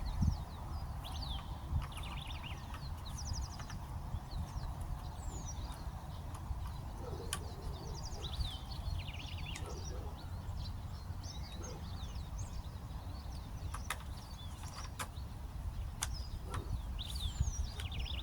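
Birds chirping and trilling, with many short, high calls, over a steady low rumble. A few sharp clicks stand out, the clearest about seven seconds in and a cluster between fourteen and sixteen seconds in.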